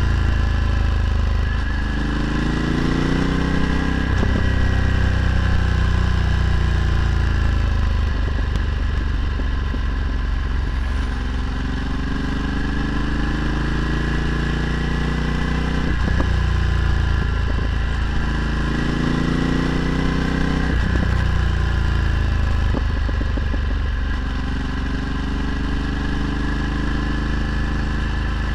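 Ducati Multistrada 1260's V-twin engine through a Termignoni exhaust, riding along. Its pitch climbs and drops back several times as it goes through the gears.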